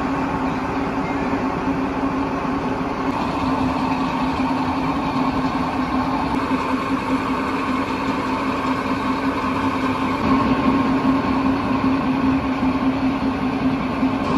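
Passenger train running along the track: a steady rolling noise with a constant low hum.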